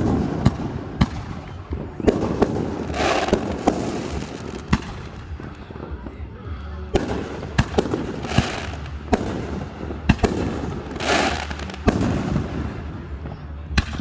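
Fireworks going off: a run of sharp bangs, some in quick succession, with a few longer noisy bursts in between.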